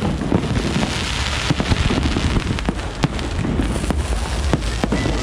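Fireworks display going off: a dense, continuous crackle with many sharp bangs in quick succession over a low rumble.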